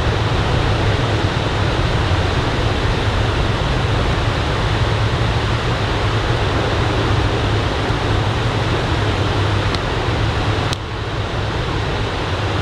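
Ocean surf breaking steadily on the beach, a continuous noise of waves. About eleven seconds in there is a click, and the sound is a little quieter after it.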